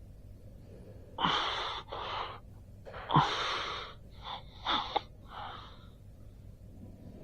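A person breathing forcefully in about six hissy, wheezy breaths, some sharp and short, one after another from about a second in to about six seconds in.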